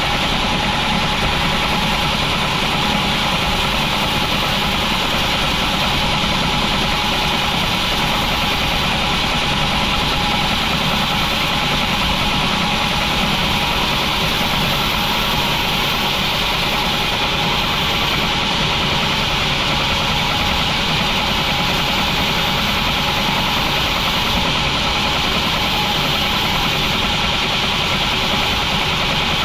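Sawmill machinery running steadily, a loud, unchanging engine-like drone with a hiss over it.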